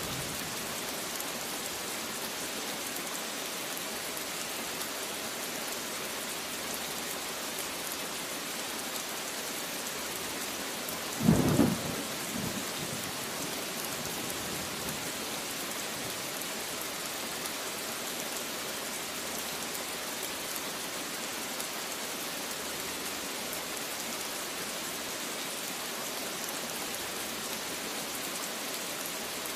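Steady heavy rain falling, with a single brief clap of thunder about eleven seconds in, the loudest moment.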